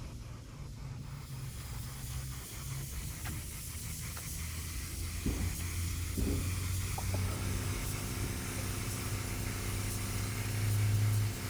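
Steady hiss of compressed air, as from a spray gun or air line in a body shop, over a low machine hum. About halfway through, a steady motor tone joins in.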